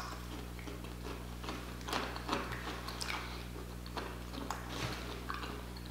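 A person chewing a piece of Hot Cheeto-coated fried octopus close to the microphone: soft, scattered wet mouth clicks, with a steady low electrical hum underneath.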